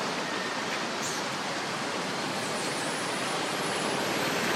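Steady rushing outdoor noise with no distinct events, and a faint, thin, wavering high whistle in the second half.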